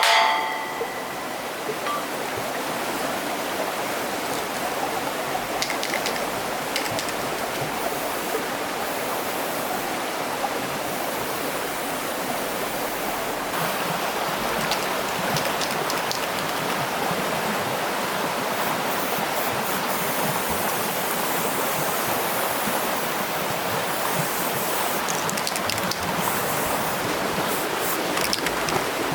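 Water rushing steadily, as a stream or small waterfall does, with a few faint clicks now and then.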